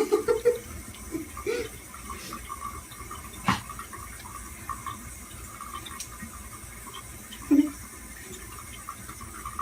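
Water running steadily, like a tap, with a sharp click about three and a half seconds in.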